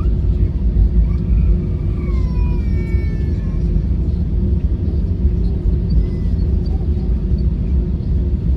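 Airbus A321 jet engines running, a steady low rumble with a constant hum over it.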